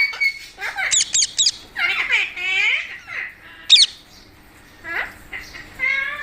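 Pet parrot squawking and calling in a series of harsh, pitched calls. About a second in come three quick shrill screeches, and one more follows a little before four seconds.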